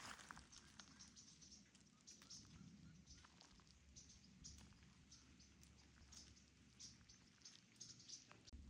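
Near silence: faint outdoor ambience with scattered soft high ticks.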